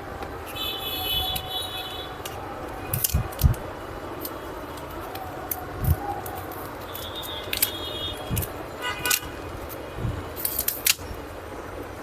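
Scattered clicks, taps and low knocks of hand tools and metal parts being handled while an LCD monitor is disassembled. A few short high ringing chirps come in around the first second and again past halfway.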